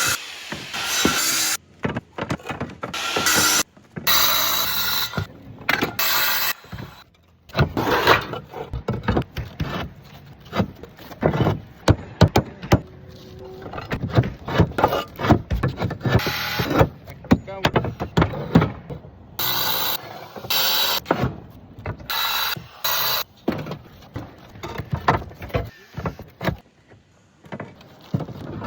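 Roof tiling work: irregular knocks and clinks with short scraping noises as tiles and tools are handled.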